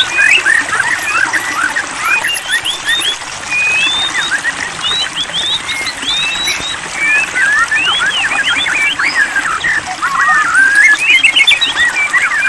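White-rumped shama (murai batu) singing: a fast, unbroken run of short chirps, trills and whistled notes that rise and fall in pitch.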